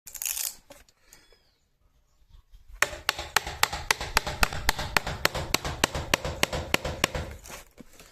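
Rapid, evenly spaced sharp taps, about four a second, starting about three seconds in and stopping about half a second before the end, over a steady rasping noise.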